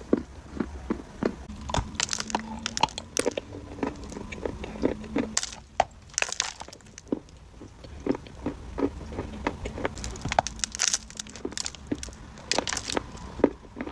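Dry clay being bitten and chewed close to the microphone, a run of irregular sharp crunches and crackles.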